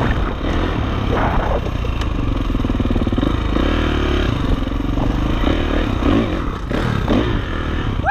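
Dirt bike engine running as the bike is ridden along a trail, with clatter from the bike over rough ground.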